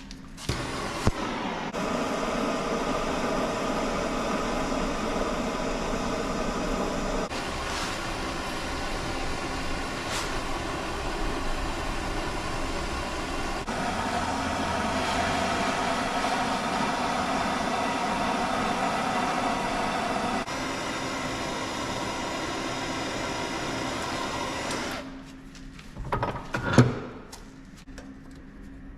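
Steady rushing noise of a gas burner heating the knife's steel tang for burning it into the wooden handle, broken into several segments that shift in level. It stops near the end, followed by a few sharp knocks.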